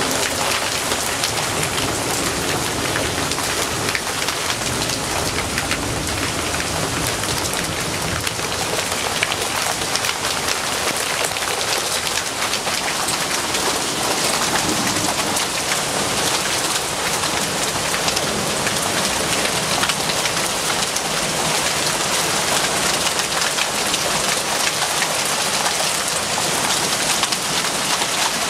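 Heavy rain during a thunderstorm, pouring steadily and pattering on the balcony and its surroundings.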